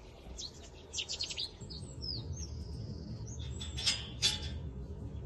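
Small birds singing and chirping, with a quick run of trilled notes and a drawn-out whistled note, over a low rumble. Two loud, sharp sounds come close together about four seconds in.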